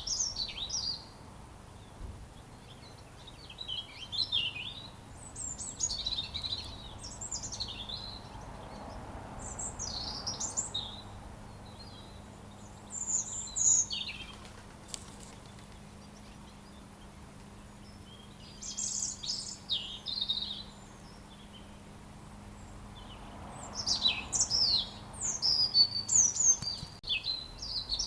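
Robin singing: short phrases of high, quickly changing chirps, each a second or two long, repeated every few seconds with pauses between, and a denser run of phrases near the end.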